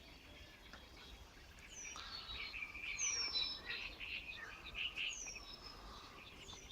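Several wild birds singing together. A high whistled note slides downward, repeated every second or two, over a busy, warbling chatter of other song.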